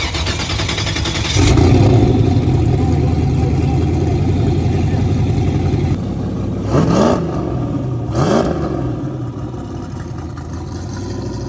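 Turbocharged LS V8 drag car engine running hard, easing off about six seconds in, followed by two short rising bursts.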